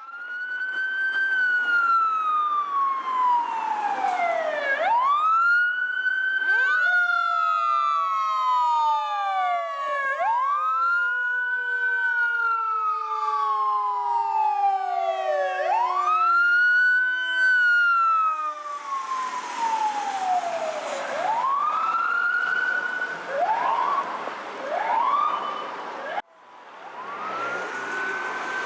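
Fire apparatus sirens wailing, each rising and falling over about five seconds. A second siren glides steadily down in pitch as it passes. Near the end come a few short quick rises, then after a sudden break another wail begins.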